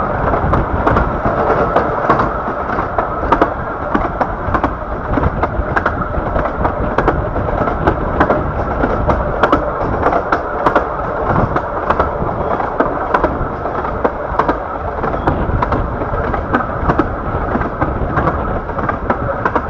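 A 15-inch-gauge miniature railway carriage running along the track: a steady rolling rumble with frequent sharp clicks of the wheels over the rail joints.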